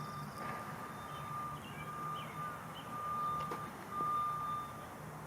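A vehicle's reversing beeper sounding a steady series of beeps, about one every second, over a low engine hum.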